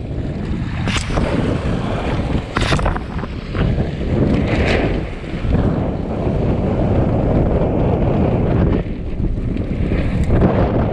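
Strong wind buffeting the head-mounted action-camera microphone, with water rushing past a small catamaran's hulls. There are a few short sharp splashes, about one, three and five seconds in.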